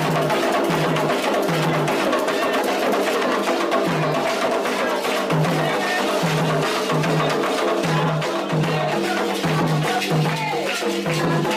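Candomblé ritual drumming: hand drums beat a steady, driving rhythm, with sharp wood-block-like strikes over it.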